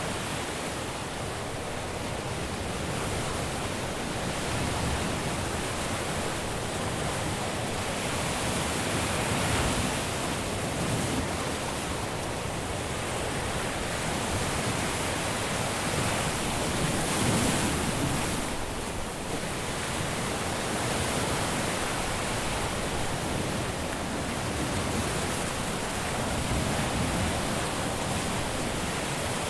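Caribbean surf washing onto a beach: a steady hiss of breaking waves that swells and eases, with the biggest surges about a third of the way in and just past the middle.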